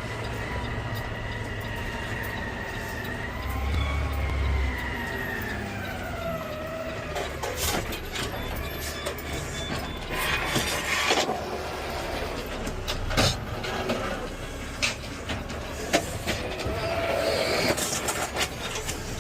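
Peterbilt 520 automated side-loader garbage truck running, with a whine that wavers and falls over the first several seconds. It is followed by a string of sharp metallic clanks and knocks.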